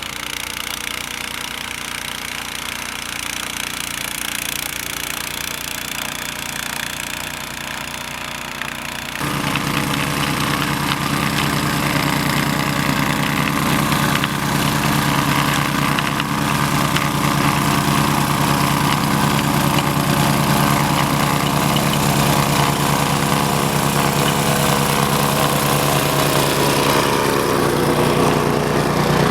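Honda snowblower engine running steadily. About nine seconds in it becomes suddenly louder, with a stronger low engine hum, and stays that way.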